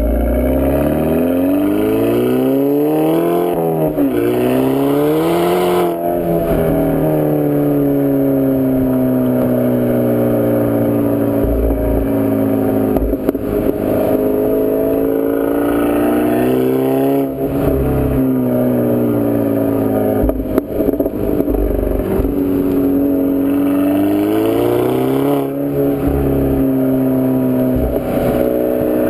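2011 Volkswagen GTI's turbocharged 2.0-litre four-cylinder engine heard through an APR turboback exhaust while driving, picked up by a GoPro mounted on the car. The engine note climbs in pitch twice in the first six seconds, then slides down slowly and holds steady, with brief rises again about two-thirds of the way through and near the end.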